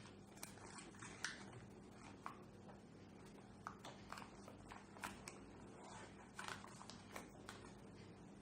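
Quiet room with a steady low hum and faint, scattered light taps and rustles, about fifteen over several seconds, as paper pieces are handled and pressed down while gluing a craft picture.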